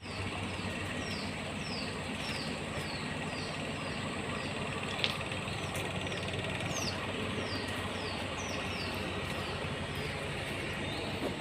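A bird calling over and over, short high chirps that each slide downward, about two a second, over a steady low background hum. A single click about halfway through.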